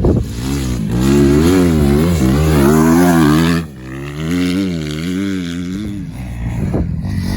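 Motocross bike engine revving hard, its pitch rising and falling over and over as the throttle works; it drops off briefly about halfway through and then picks back up.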